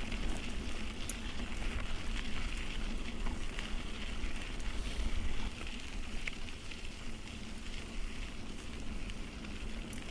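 Mountain bike riding over a rough track: a steady crackle of tyres rolling over grit and stones, with scattered small ticks.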